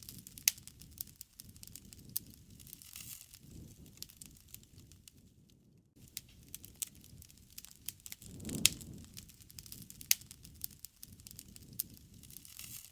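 Wood fire crackling, with sharp pops at irregular intervals over a soft low rumble of burning. The loudest pop comes about two-thirds of the way through.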